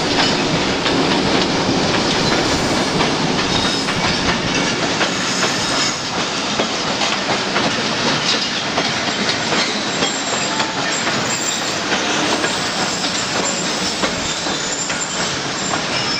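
Railway train running on the track: a steady rumble with many small clicks of wheels over the rails and a faint thin squeal of wheels on steel.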